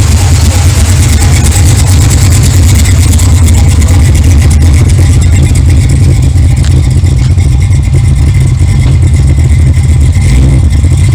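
A car engine running loud and steady, with no clear rise or fall in revs.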